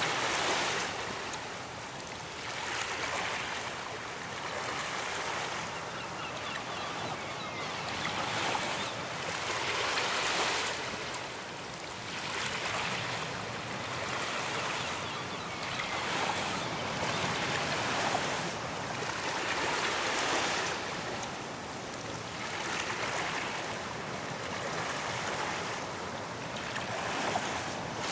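Ocean waves washing onto a beach in a continuous surf, rising and falling in soft swells every two to three seconds.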